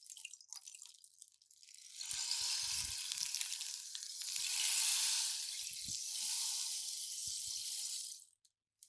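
Rain stick tipped so its filling trickles and cascades down inside the tube, giving a rain-like pattering hiss. It begins with a few scattered ticks, becomes a full steady pour about two seconds in that swells midway, and stops abruptly near the end.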